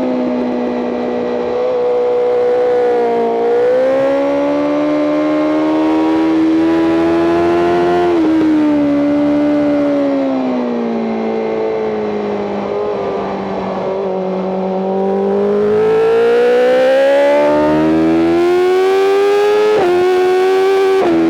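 BMW M 1000 RR's inline-four engine heard onboard at track speed, its pitch swinging as the rider works the throttle: the note sags over the first few seconds, climbs to about eight seconds, falls gradually for several seconds, then climbs hard again. Two brief, sharp dips in the note, near the middle and just before the end, mark quick upshifts.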